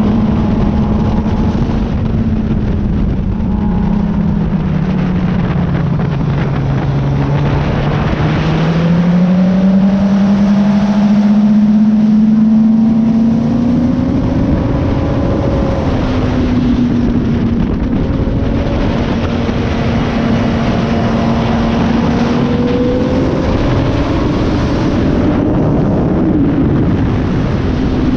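Suzuki GSX-R sport bike's inline-four engine at speed on a race track. Its pitch sinks over several seconds and then climbs back up and holds high with small dips, under steady wind rush.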